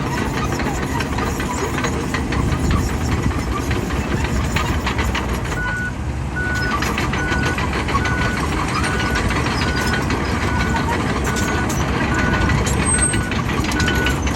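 Bulldozer diesel engine running under load with many sharp clanks. From about six seconds in, a backup alarm beeps steadily, about two beeps a second, as the machine reverses.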